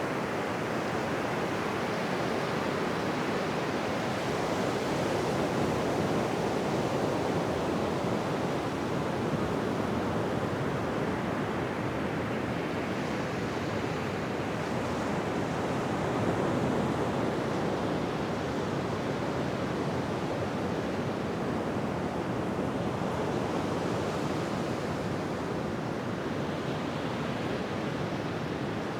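Ocean waves washing on a beach: a continuous surf rush that swells and eases gently.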